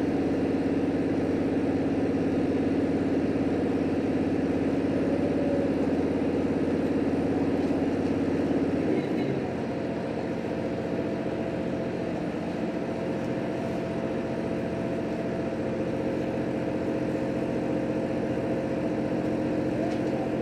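Steady engine and running noise inside a JR Hokkaido H100 series diesel-electric railcar under way, with several held tones. About nine seconds in the sound drops a little in level and the tones shift in pitch.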